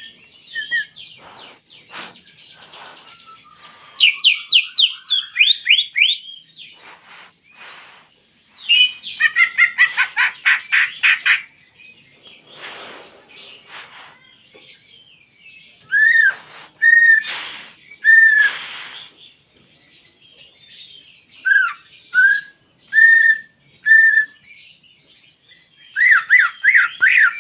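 Cucak ijo (greater green leafbird) singing loudly in separate phrases: fast trills of rapidly repeated notes, rows of short clear whistles, and a few harsh rasping notes. Its song is filled with canary phrases it has learned.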